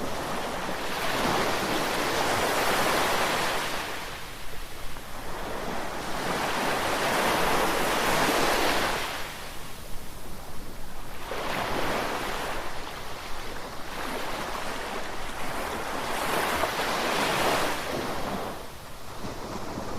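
Rushing water of a river in glacial flood, an even roar that swells and eases about every four to five seconds.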